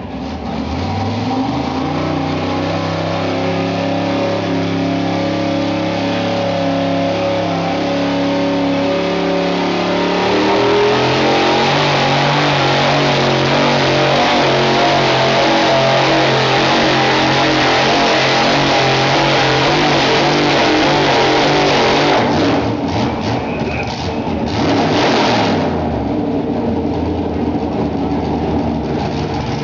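Modified gas pulling truck's engine run hard at full throttle while pulling the weight sled, holding high revs with a step up in pitch about ten seconds in. About 22 seconds in it lets off, sputters and revs in bursts, then the pitch falls away to a lower running speed.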